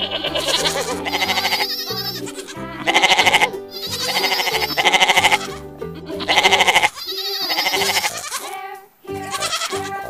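Goat bleating several times, the loudest calls about three, five and six and a half seconds in, over background music.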